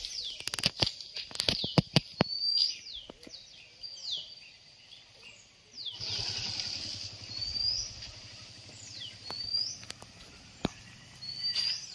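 A bird calling over and over, short rising whistles alternating with quick falling notes, a call every second or two. A cluster of sharp knocks comes in the first two seconds, and a motorbike engine passes by from about six seconds in.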